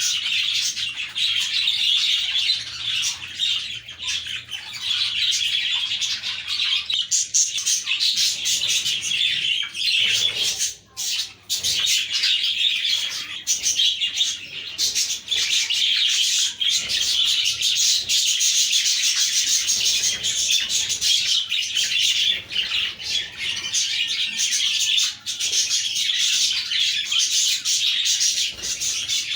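A flock of budgerigars chirping and warbling together in a dense, continuous chatter, with a brief lull about eleven seconds in.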